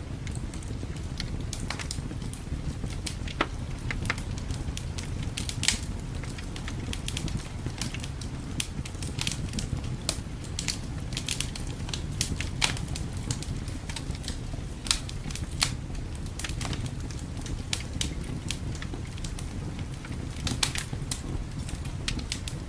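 Wood fire crackling, with frequent irregular sharp pops and snaps over a steady low rumble of winter wind.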